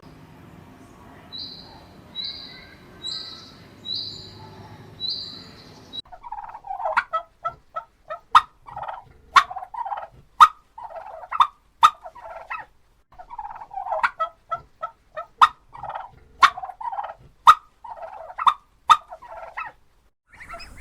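Domestic fowl calling. First come five short, high chirps about a second apart, then from about six seconds in a long run of rapid, repeated calls broken by sharp clicks.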